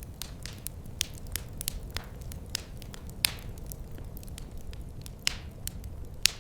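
Wood fire crackling in a fireplace: irregular sharp pops and snaps over a steady low rumble of the burning fire, with two louder pops, one about three seconds in and one near the end.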